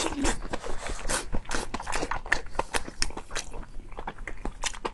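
Close-miked chewing of saucy braised meat: a quick, irregular run of wet mouth clicks and smacks.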